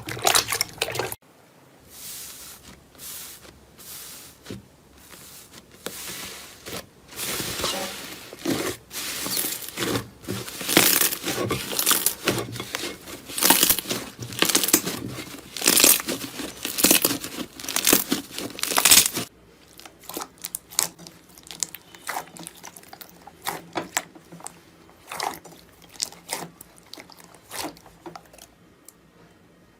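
Crisp crunching and crackling of a brittle material crushed by hand, in dense runs of crackles. About two-thirds of the way in it changes to sparser, lighter clicks.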